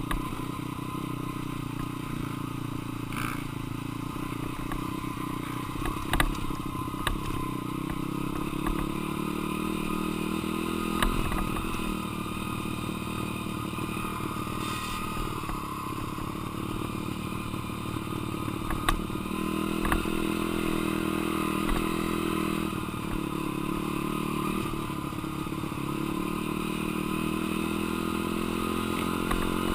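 Single-cylinder four-stroke dirt bike engine running under riding load, its revs rising and falling repeatedly as the throttle is worked, with scattered sharp knocks and clatter.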